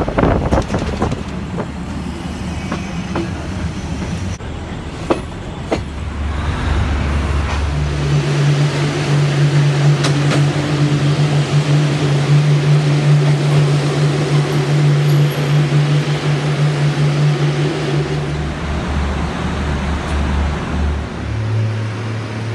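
Train noise: first a train running along the line, with rumble and a few sharp clicks. From about eight seconds in comes a steady low drone from a train standing at a station platform, which changes to a different low hum near the end.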